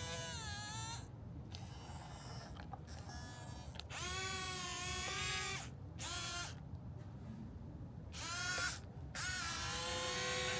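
Small electric motors of a toy excavator whirring in about five short bursts, each spinning up with a rising whine, holding a steady pitch, then winding down.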